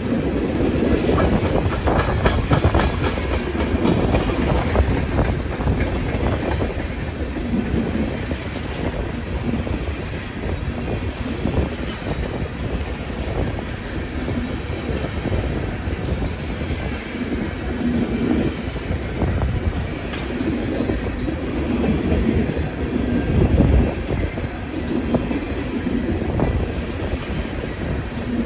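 Railroad cars rolling past on the rails: a steady rumble with rhythmic clacking as the wheels cross rail joints.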